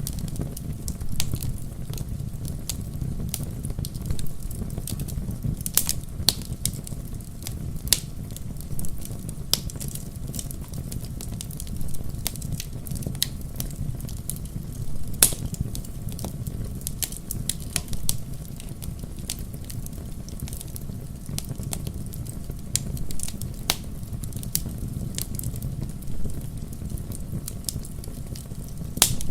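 Wood fire crackling in a fireplace, with frequent irregular sharp pops over a low steady rumble; one of the louder pops comes about halfway through.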